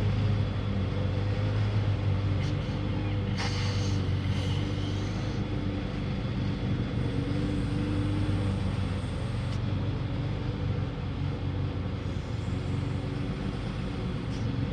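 A steady low motor drone runs throughout, with a brief clatter about three and a half seconds in.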